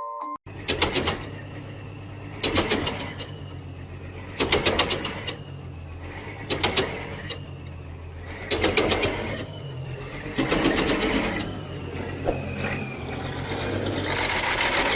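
Machinery with a steady low hum and a burst of rattling clicks repeating about every two seconds.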